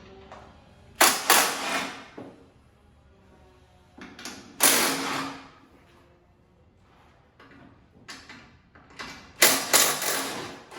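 Three loud metal clunks with a short rasping tail, a few seconds apart: a worn pickup-truck hood hinge being worked open and shut.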